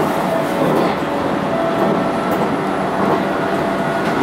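Interior running noise of the Fruitia Fukushima, a converted 719-series electric multiple unit, moving along the track: a steady rumble of wheels on rail with a constant hum.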